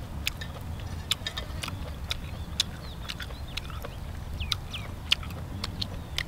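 Close-up chewing and lip-smacking of someone eating grilled octopus: irregular sharp wet clicks, two or three a second, over a low steady background rumble.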